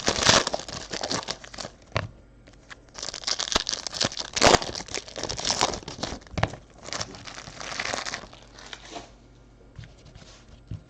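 Plastic trading-card pack wrapping being torn open and crinkled in several rustling bursts, dying down to a few faint clicks over the last two seconds.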